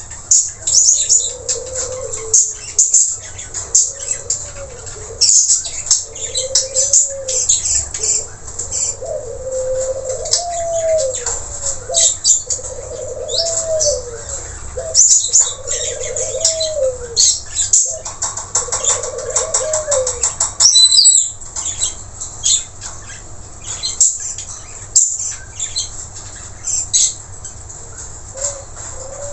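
Nuri tanau (long-tailed parakeets) calling incessantly with rapid, shrill, high-pitched chirps. Under them, for the first two-thirds, runs a lower series of arching, coo-like calls about once a second.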